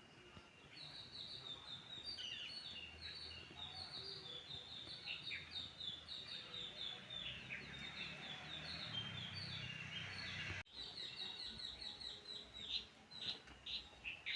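Small birds chirping: a rapid, continuous run of short high chirps, each dipping slightly in pitch, with a brief break about ten and a half seconds in.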